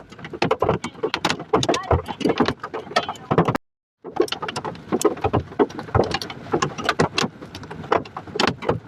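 Hailstones pelting a hard surface: a dense, irregular clatter of sharp impacts, broken by a brief cut to silence about three and a half seconds in.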